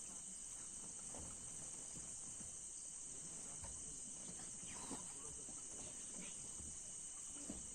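A steady, faint, high-pitched insect chorus droning without a break, with a few soft scattered sounds beneath it.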